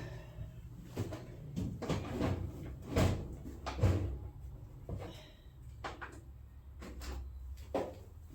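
Tools and small engine parts being handled on a workbench: a scattered series of knocks and clunks, about seven in all.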